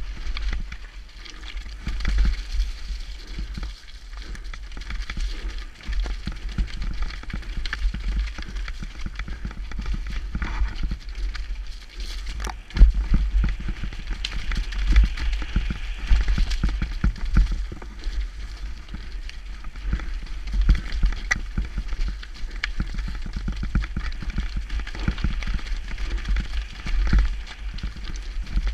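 Downhill mountain bike descending a rough trail at speed: tyres on dirt and rock, with the chain and frame rattling and knocking over the bumps and wind rumbling on the GoPro microphone. One hard knock near the middle stands out as the loudest.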